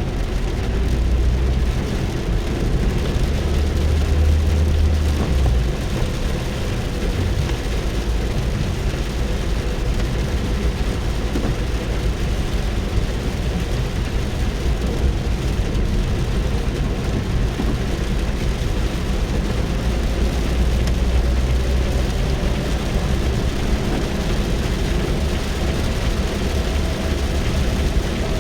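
Rain falling on a car's roof and windows, heard from inside the cabin as a steady hiss over a deep low rumble that swells a couple of times.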